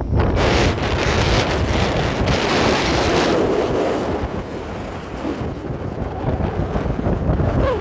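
Wind buffeting the microphone: a strong gust for about the first three seconds, then a gustier, lower rumble.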